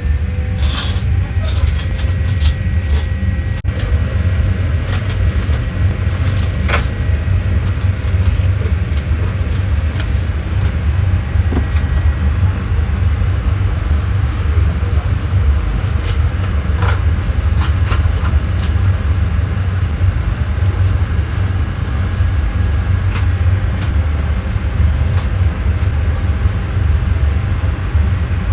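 Steady low rumble of cabin noise inside a Boeing 787-8 airliner, with a few scattered clicks and knocks.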